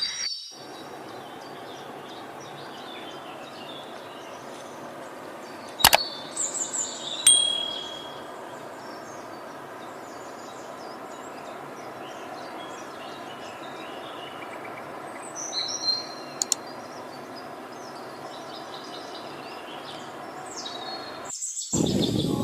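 Birds calling with scattered high chirps and short whistles over a steady background hiss, busiest about six to eight seconds in and again in the second half. A sharp click sounds about six seconds in.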